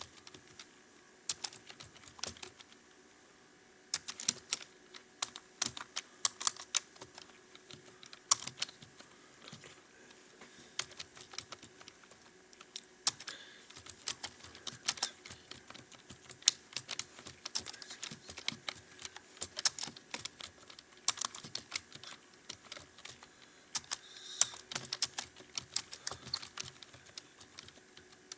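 Computer keyboard keys clicking in quick, uneven runs as someone touch-types a passage during a timed typing-speed test. The clicking pauses briefly for about a second and a half, roughly two seconds in.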